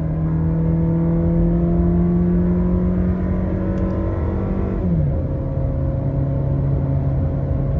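2019 Toyota Innova 2.0's four-cylinder petrol engine under full acceleration, its pitch climbing slowly as revs build. About five seconds in, the note drops sharply at an upshift, then starts climbing again in the next gear.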